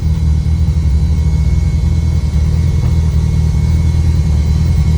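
Built Subaru Impreza's turbocharged flat-four engine running steadily on the move, a loud low drone heard from inside its gutted, caged cabin.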